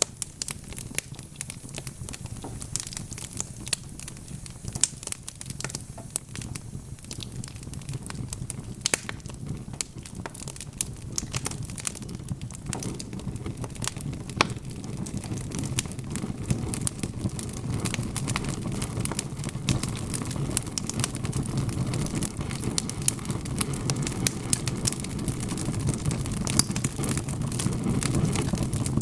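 Wood fire of burning logs crackling, with many sharp pops over a low rumble that grows louder from about halfway through.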